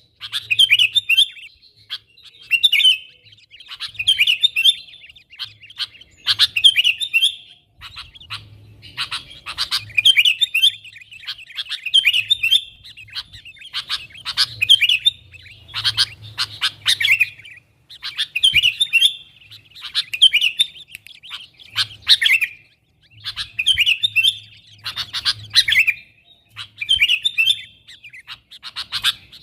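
Sooty-headed bulbul (kutilang) calling busily in short chattering phrases, one about every one to two seconds.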